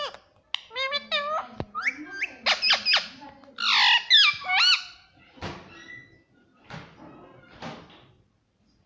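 A parrot calling in a rapid run of high, sharply bending squawks and whistles, followed by three sharp knocks in the second half.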